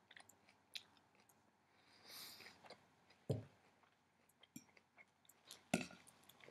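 Faint close-up chewing of kale salad, with scattered small crunches and mouth clicks. Two louder thumps land about three seconds in and again near the end.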